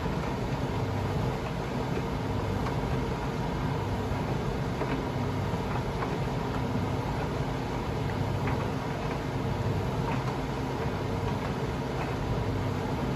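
Privileg Sensation 952 S top-loading washing machine running steadily, with a low hum and faint scattered ticks.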